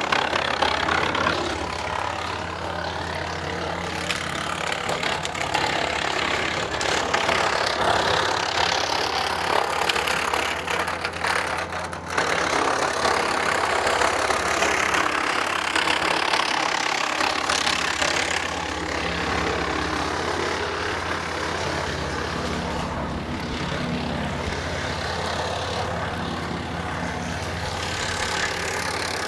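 Tractor-driven Woodland Mills WC68 PTO wood chipper chipping dry eastern white cedar branches. A steady low engine and flywheel hum runs under a rough chipping noise that swells and eases as branches feed through.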